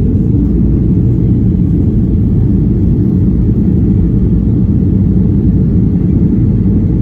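Steady low rumble of engine and air noise inside the cabin of a Boeing 737-800 with CFM56 turbofans.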